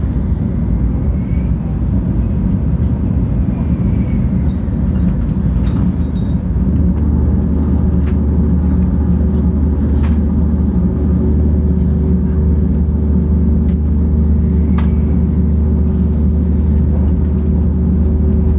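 Cabin running noise of a 700 series Shinkansen at speed: a steady low rumble that gets deeper and a little louder about six seconds in, with a faint steady hum and a few light clicks.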